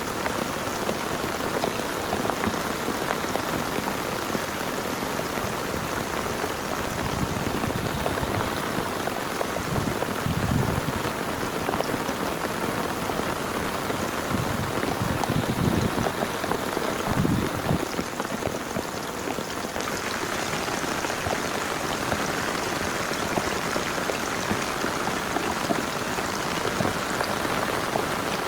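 Heavy rain falling steadily, a dense even patter. A few dull low thumps stand out about a third of the way in and again past the middle.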